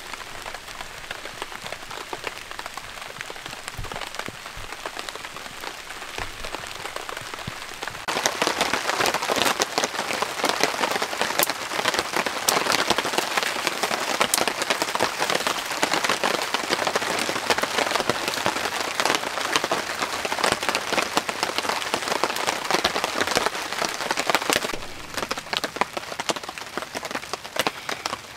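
Rain falling, a dense patter of drops on a tarp shelter. It grows louder about eight seconds in and eases again near the end.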